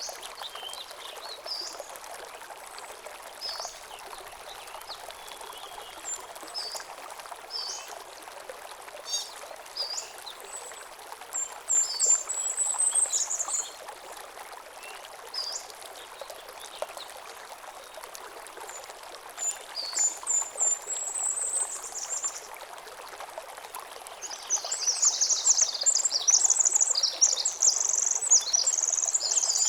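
A small stream running steadily over stones, with songbirds giving scattered short chirps and high trills. Near the end a bird breaks into a rapid, louder song.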